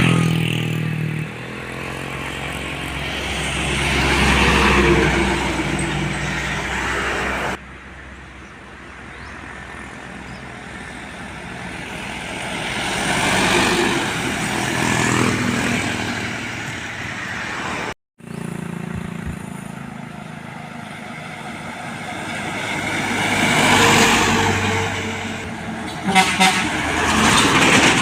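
Heavy diesel trucks passing one after another on a road, each one's engine and tyre noise rising and fading. A horn sounds briefly at the start.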